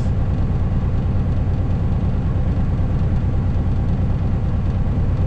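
Heavy diesel truck engine of a tri-axle rollback running steadily, a low even drone.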